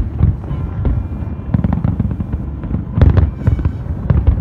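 Aerial fireworks display: a dense, continuous barrage of booming shell bursts and crackling, with a loud cluster of bangs about three seconds in.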